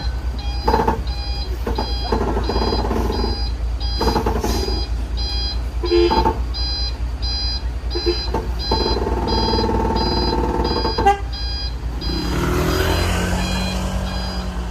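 A vehicle's reversing alarm beeping about twice a second, with a heavy diesel engine running steadily underneath.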